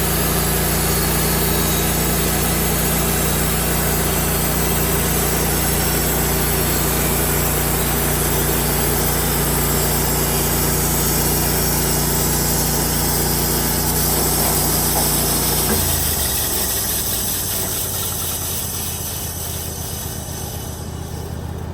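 Band sawmill's engine running steadily under load, most likely through a cut, then dropping suddenly to a lower speed about sixteen seconds in, the sound falling away after that.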